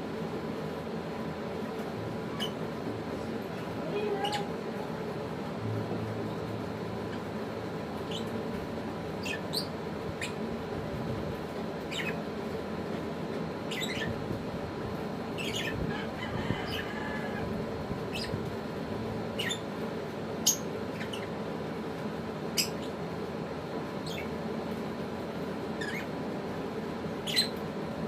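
Lovebirds giving short, high-pitched chirps and squeaks at irregular intervals, a dozen or so, several sliding down in pitch, over a steady low hum.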